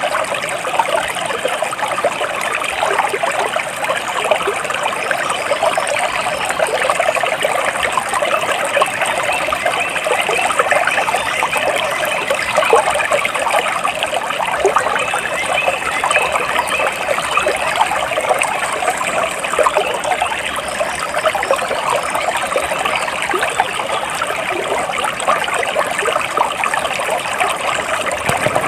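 Flowing water from a small stream trickling steadily, an even, unbroken rush.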